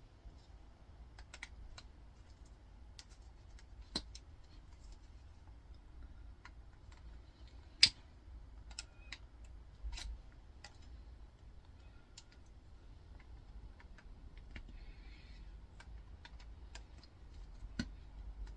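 Cutters clipping at the edges of an electric motor: scattered small clicks and snips, with one sharp snap about eight seconds in.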